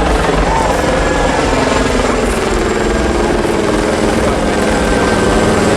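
Steady, loud mechanical drone with a fast low pulsing.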